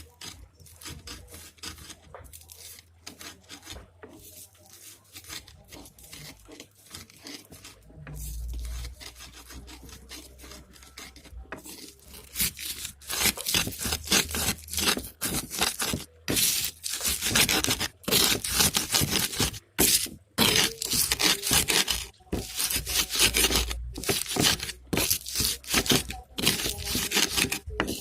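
Quick, repeated hand scraping or rasping strokes from food preparation, faint at first and much louder from about halfway through.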